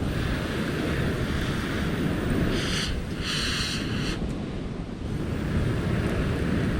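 Wind rumbling on the microphone, with two short, high-pitched calls or squeals a little before the middle.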